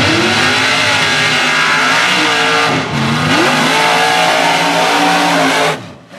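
Mega truck engine at full throttle, revving hard. The revs dip briefly about three seconds in, then climb again, and the sound stops abruptly near the end.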